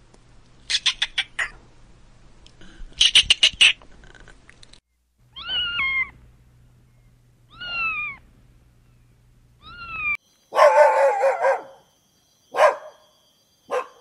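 A gray squirrel's rapid chattering chips in two quick runs. Then a domestic cat meows three times, each meow falling in pitch. Near the end a dog whines with a couple of short whimpers.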